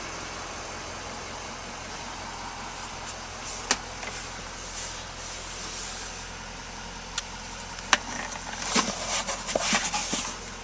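Duramax 6.6-litre V8 turbo diesel idling with a steady low hum. Two sharp clicks sound partway through, and handling and rustling noises follow near the end.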